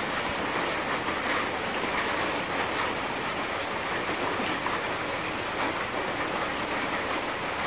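Chicken sausage frying in a pot over a soda-can alcohol stove, making a steady sizzling hiss, with a few faint knife taps on a cutting board.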